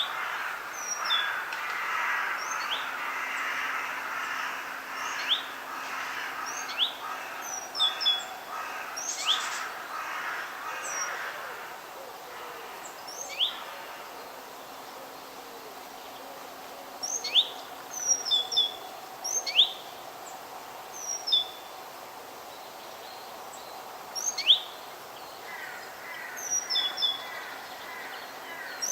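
Forest birds chirping and calling: short, sharp, falling notes at irregular intervals over a steady background hiss.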